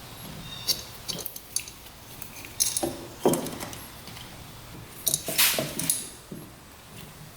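Metal tools and engine parts handled on a workbench: scattered clinks and knocks, with one longer scraping sound about five seconds in.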